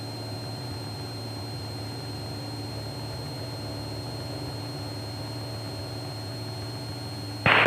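Cessna 172's piston engine and propeller running steadily at full power during the takeoff roll, an even drone with a thin steady high tone above it.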